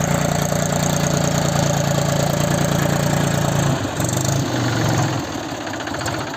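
Mahindra tractor diesel engine running with a steady note for almost four seconds, then wavering and dropping off towards the end.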